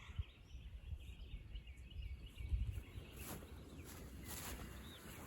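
Faint bird chirps over a low outdoor rumble, with two brief rustles about three and four and a half seconds in.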